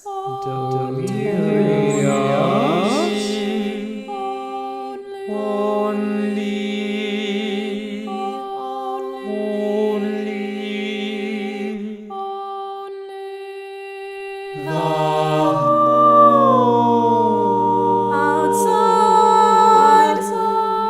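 Unaccompanied voices singing in layered, sustained chords. Several long held notes overlap, with a few voices gliding in pitch near the start and again about two-thirds of the way through.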